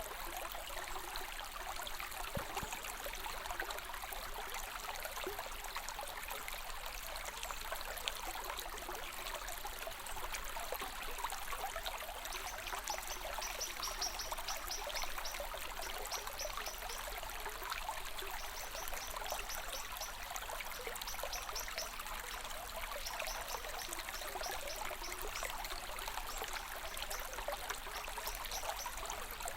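Water running steadily in a small stream, trickling and splashing. Through the middle there are short runs of rapid, high chirping.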